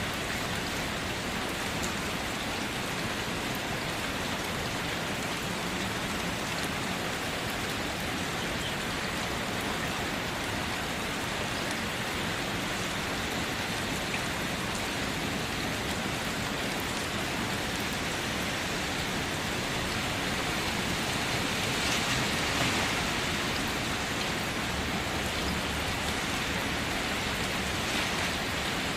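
Steady rain: a continuous even hiss with faint scattered drop ticks, swelling slightly about three-quarters of the way in.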